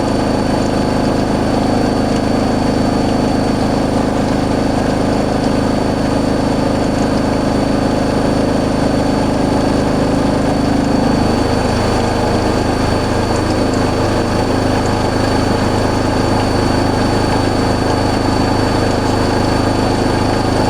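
Hoover AAA Whisper 1600 front-loading washing machine in its high-speed final spin: a loud, steady drone with a constant high whine. About halfway through, the drone's pitch drops slightly.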